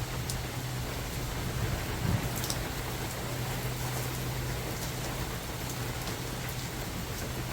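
Rain falling on a forest: a steady hiss, with individual drops striking sharply here and there. A low steady hum runs underneath, and there is a brief louder thump about two seconds in.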